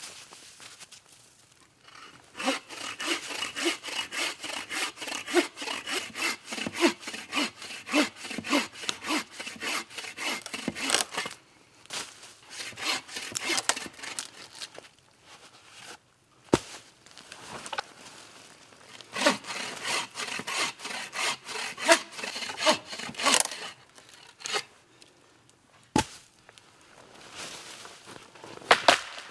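Wood being sawn by hand: fast, regular back-and-forth strokes in two long bouts, with a couple of sharp single knocks in the pause between them and near the end.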